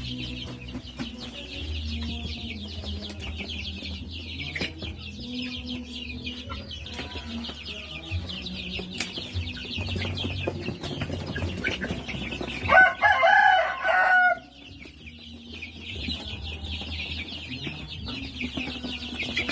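A flock of native chickens clucking and chirping steadily, with one rooster crowing loudly about thirteen seconds in, a call of about a second and a half.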